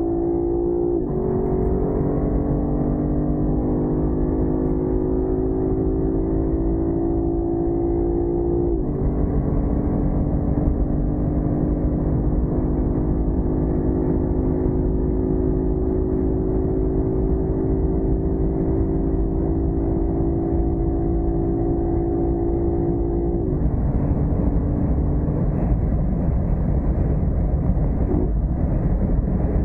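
Lexus LC 500's 5.0-litre V8 accelerating hard at full throttle. Its note climbs slowly through each gear and drops at three upshifts of the automatic gearbox: about a second in, around nine seconds and around twenty-three seconds. Wind and road noise grow over the last few seconds.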